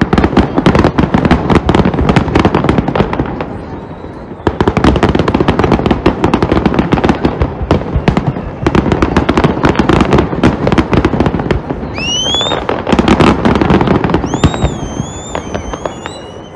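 Fireworks going off in a dense, rapid run of bangs and crackles. Near the end come two rising whistles from whistling fireworks, the second wavering as it climbs.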